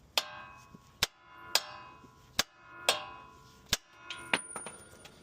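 Hammer blows on steel steering parts to shock the tapered stud of the upper tie rod end loose from its socket. There are six sharp strikes about every 0.7 s, every other one ringing with a metallic clang.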